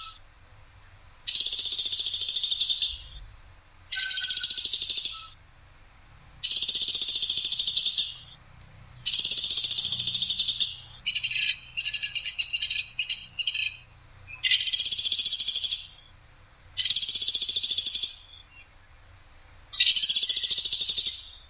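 A Platuk Sampit, a woodpecker as Indonesian bird-keepers name it, giving loud, rough, sharp rattling calls, each lasting about a second and a half. They repeat about eight times with short pauses, and one call near the middle breaks into a choppy run of short notes.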